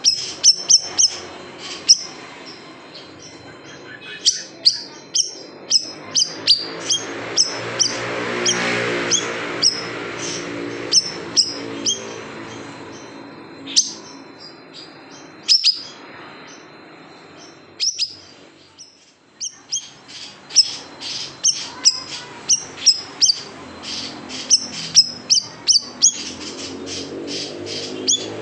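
Siri-siri besar songbird calling: sharp, high chirps and short quick strings of notes repeated again and again, the piercing 'tembakan' calls bird keepers use to train other birds. A low steady hum sits under the calls, swelling about a quarter of the way in and again near the end.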